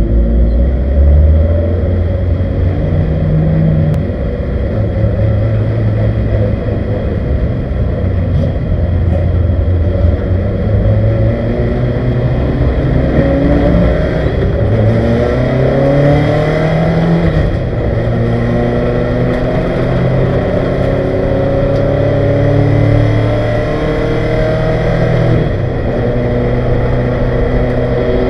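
A 1971 Ford Capri 2.0-litre race car's engine, heard from inside its stripped cabin. It pulls at low revs at first, then accelerates hard through the gears, its pitch climbing and dropping back at each upshift.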